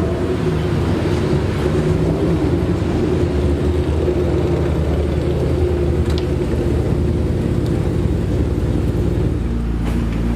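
Race car engine running on track, holding a fairly steady note with a deep rumble underneath.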